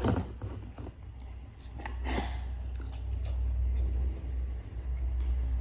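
Crispy fried chicken being bitten and chewed close to the microphone, with a few crunchy bites, over a steady low hum.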